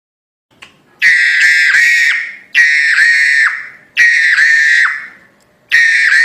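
Crested myna calling loudly: four calls of about a second each, coming roughly every one and a half seconds.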